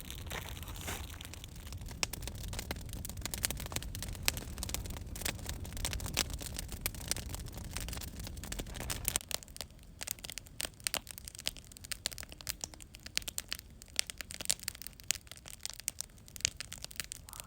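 Wood fire crackling and popping in irregular sharp snaps, over a low rumble that drops away about nine seconds in.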